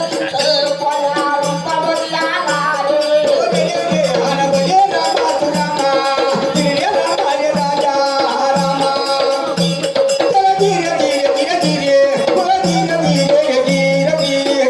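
Indian folk music passage: a melody wavering over a held drone, with a low repeating note and a shaking rattle in steady rhythm.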